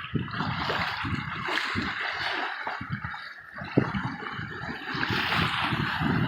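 Sea water rushing and gurgling along the hull of a sailboat under way, a steady hiss with an uneven low rumble underneath.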